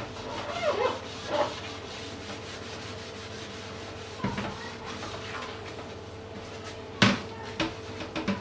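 Household items being handled and set down while a fridge is emptied and cleaned: a few light knocks and clacks, with the sharpest knock about seven seconds in, over a steady hum.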